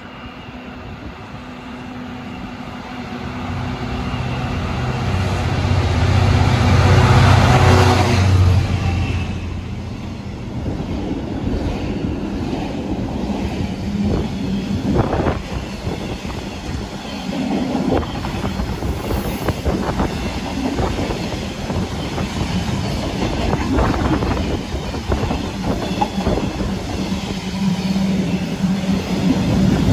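Train passing close by: a deep, steady engine note builds to its loudest about eight seconds in and drops away, then the train's cars roll past with wheels clattering over rail joints.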